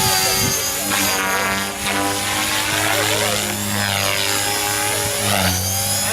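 Electric 500-size radio-controlled helicopter flying: a steady whine from its motor and rotor with several held tones, the sound shifting as the model moves about.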